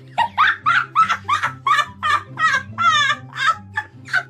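High-pitched laughter in quick repeated bursts, about three a second, over a low bass line.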